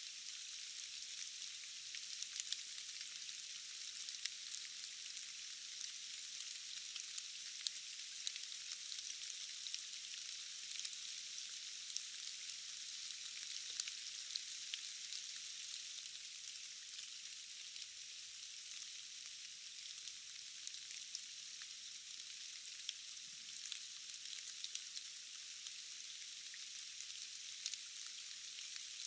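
Steady rain falling in a forest: an even hiss with many scattered, sharp drop taps.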